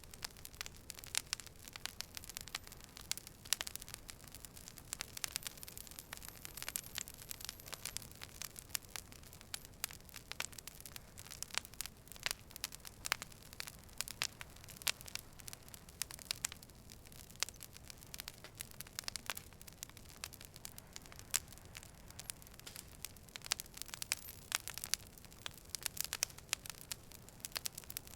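Campfire crackling: irregular sharp snaps and pops, many a second, over a steady soft hiss.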